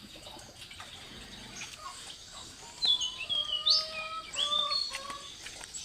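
A bird calling: a run of short, clear whistled notes that step downward in pitch, starting about halfway through.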